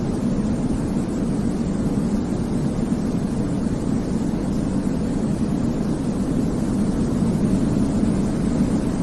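Steady low-pitched white noise for baby sleep, heaviest in the bass and unchanging, with no rhythm or breaks.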